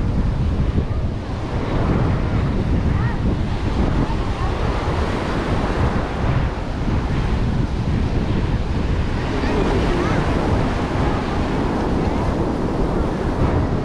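Ocean surf washing onto a beach, with wind buffeting the microphone. Faint voices of other people come and go.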